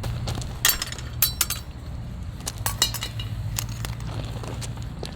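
A run of sharp, irregular clicks and clinks of hard objects being handled and set down, over a steady low hum.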